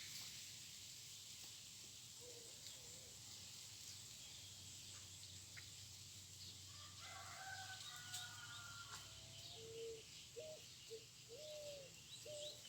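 Faint, distant birds calling over near silence. About seven seconds in comes one long call of about two seconds, followed by a string of short calls and quick high chirping near the end.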